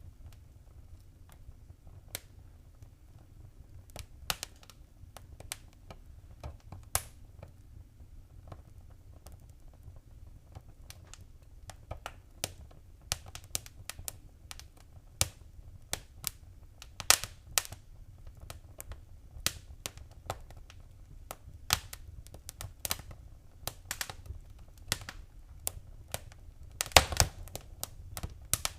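Wood fire crackling: irregular sharp pops and snaps over a low steady rumble of the flames. The snaps are sparse at first and grow busier, with the loudest cluster of them near the end.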